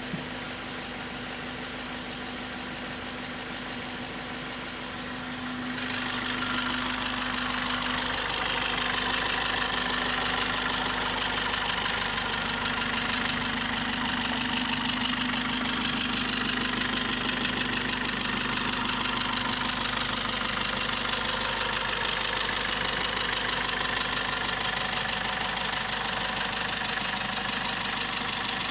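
Great Wall V200's 2.0-litre turbo-diesel engine idling steadily; about six seconds in it becomes louder and brighter and then holds steady.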